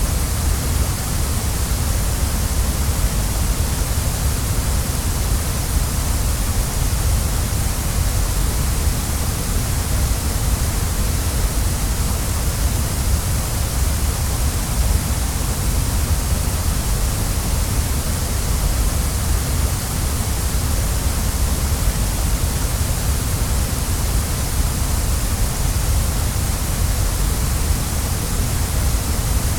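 Waterfall: a steady, unchanging rush of falling water, with a deep rumble and a bright hiss.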